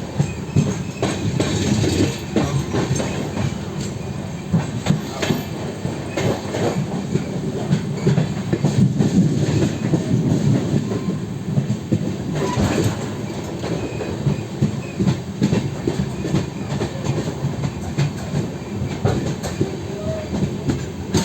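Train running at speed, heard from on board: a steady low rumble with the wheels clicking and clattering over the rail joints.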